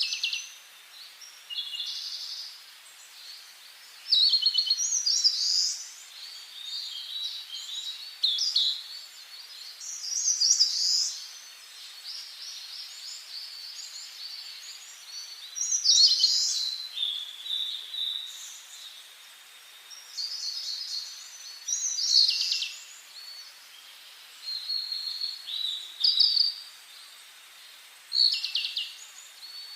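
Songbirds singing in a forest: short, high-pitched song phrases about a second long, following one another every second or two over a faint steady background hiss.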